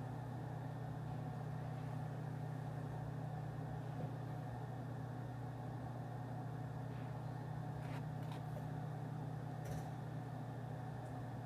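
Steady low hum of office room ambience, even and unchanging, with a few faint clicks near the end.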